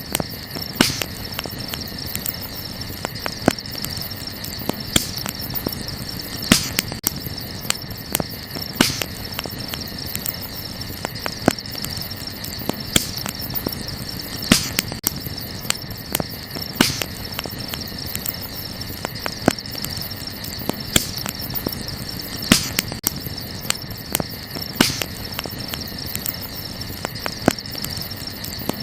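Wood fire crackling, with sharp irregular pops every second or two, over a steady high chirring of crickets.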